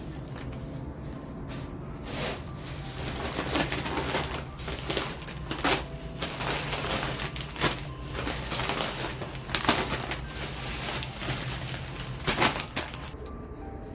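Crinkling and rustling of plastic grocery bags and packaging as groceries are handled, with several sharp knocks and clicks spread through it.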